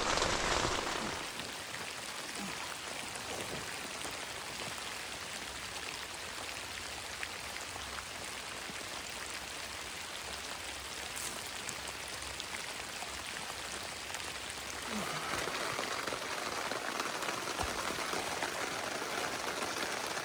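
Heavy rain pattering steadily on the fabric of a small tent, growing louder about fifteen seconds in.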